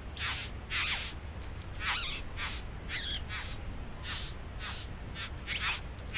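Bowerbird calling: a run of about a dozen short, scratchy calls, roughly two a second, each sliding down slightly in pitch.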